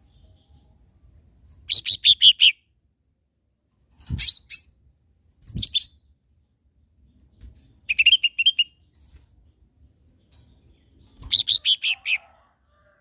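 Cucak ijo mini (a small green leafbird) singing in short bursts of rapid high chirps, five phrases each well under a second long with pauses between. Two brief low thuds come with the second and third phrases.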